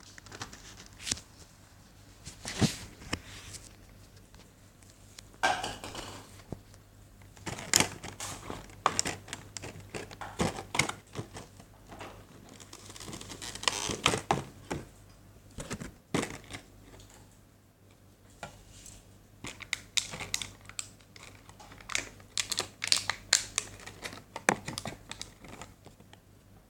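Packaging of a boxed model airliner being handled: plastic and cardboard crinkling and rustling, with irregular sharp clicks and knocks.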